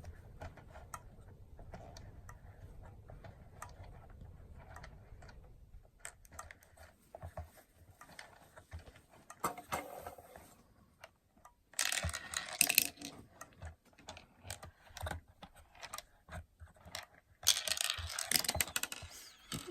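Plastic toy train mine playset mechanism working, with scattered small plastic clicks and knocks and two louder clattering rattles, one about twelve seconds in and a longer one near the end.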